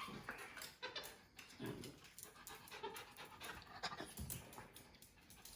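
Dog panting softly, with a few short knocks and rustles.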